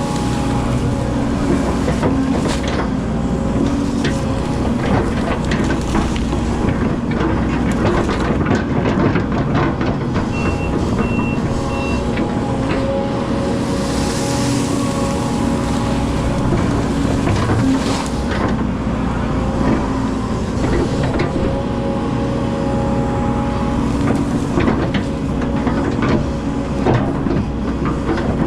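Hydraulic excavator's diesel engine running steadily under load, with repeated clanks and knocks from the working arm and bucket. Three short high beeps sound about ten seconds in.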